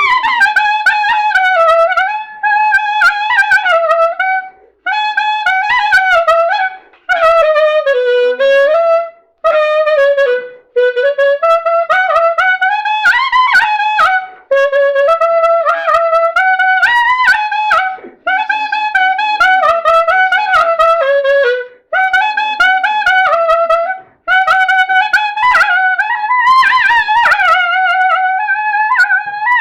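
Solo clarinet playing a melody in phrases of two to three seconds, with slides and wavering ornaments on the notes and a short breath between phrases.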